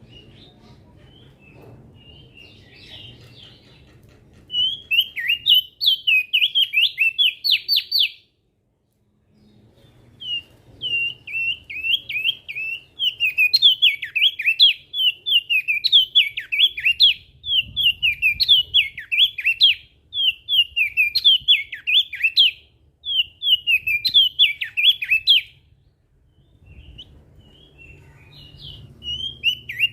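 Crested dark-eye (opior jambul) singing loud, rapid chattering phrases of quick high notes, phrase after phrase with brief pauses, including a short complete break about a third of the way in.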